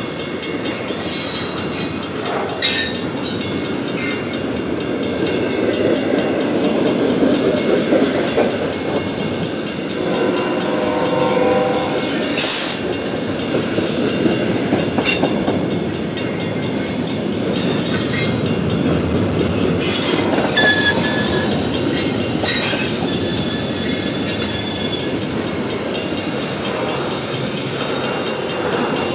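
Container-laden double-stack well cars of a freight train rolling past close by: steel wheels clattering and rumbling steadily over the rails, with scattered clanks. There is a brief ringing squeal from the wheels about ten seconds in.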